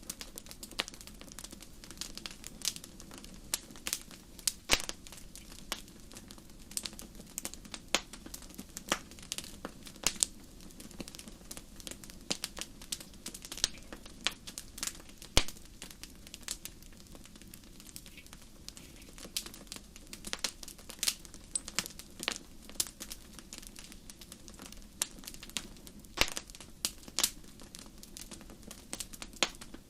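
Wood fire crackling in a fireplace: irregular sharp pops and snaps over a low, steady hiss of burning.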